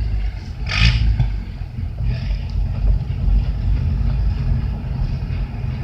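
Steady low engine and road rumble of a vehicle moving slowly at about 12 mph, heard from inside the cab, with a brief hiss about a second in.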